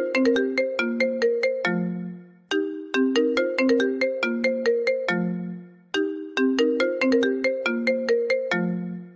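iPhone ringtone playing: quick runs of short, bright, bell-like notes, each phrase ending on a lower note that fades, looping about every three and a half seconds.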